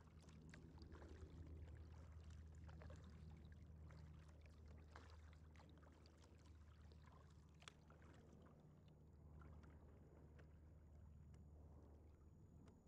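Faint splashing and dripping of a kayak paddle dipping into river water, stroke after stroke, over a steady low hum.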